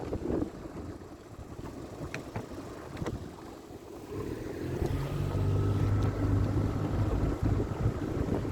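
Small motorboat's engine running, with wind buffeting the microphone and water sounds. About halfway through, the engine note becomes louder and steadier.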